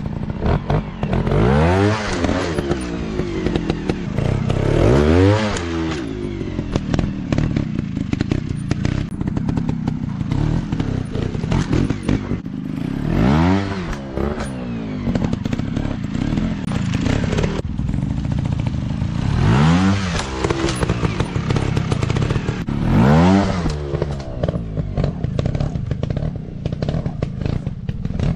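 Small dirt-bike engines running hard on a trail, the revs rising and falling about five times as the bikes are throttled up and back, with rattling clatter throughout.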